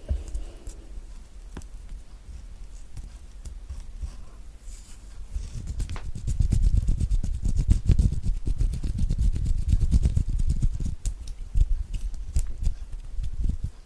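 Close-miked ASMR hand sounds: from about five seconds in, hands rub and move right at the microphone in a dense run of rapid small rustles, ticks and low rumbles. Before that, a few faint clicks come from orange pieces being peeled.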